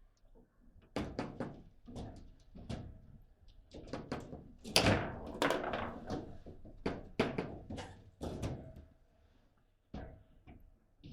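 Table football in play: the ball is struck by the players' figures and knocks against the table, with the rods clacking, giving a run of sharp, irregular knocks and thunks. A short lull comes near the end.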